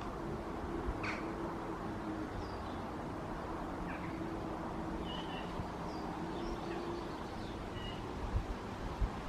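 Birds calling outdoors, with short scattered chirps and a few downward-sliding calls, over a steady rush of wind in the trees and a faint low hum.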